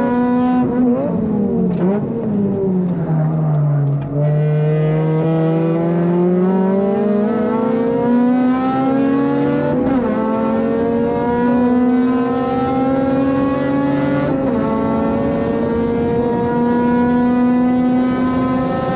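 Honda Civic FD2's four-cylinder engine heard from inside the car on track. The engine note drops through a braking zone with quick throttle blips on downshifts, then climbs steadily under full throttle. Two upshifts, about ten and fourteen and a half seconds in, each cut the pitch before it rises again.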